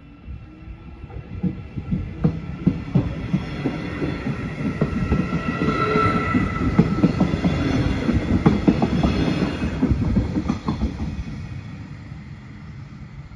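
Stadler GTW electric multiple unit passing close by over a level crossing: its wheels clatter over the rail joints under a steady electric whine. It grows louder over the first few seconds, is loudest in the middle, and fades away about eleven seconds in.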